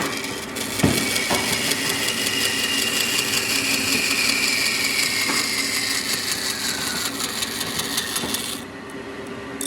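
A woodworking power tool running on wood, with two knocks about a second in. Its whine slowly falls in pitch, and the high hiss cuts off suddenly near the end.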